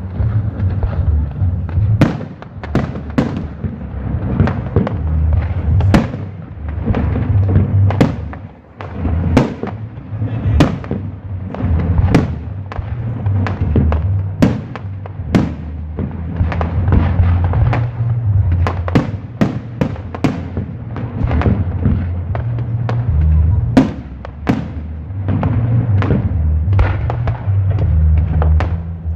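Fireworks and firecrackers going off in a rapid, irregular string of sharp bangs and cracks, dozens of them, over a continuous low rumble.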